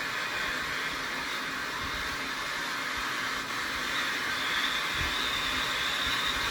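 Firework fountain (Krakatoa 500 g gerb) burning with a steady hiss of spraying sparks; a thin high whistle-like tone joins about four seconds in.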